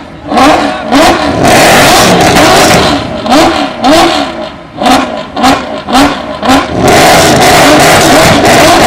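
Mercedes-AMG V8 engines being revved hard in a series of quick throttle blips, the pitch rising and falling with each one, then held at high revs for the last couple of seconds.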